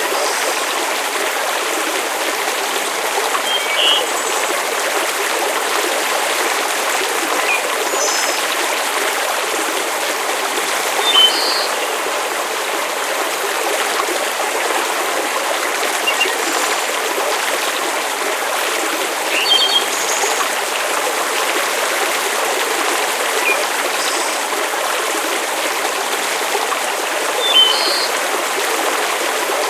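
Steady hiss of rain with no low rumble, from a layered nature ambience. Short high-pitched blips sound over it every few seconds, the loudest four spread across the clip.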